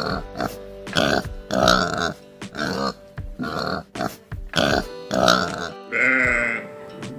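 Domestic pig grunting: a run of short, repeated grunts, about two a second. Near the end they give way to a longer wavering bleat.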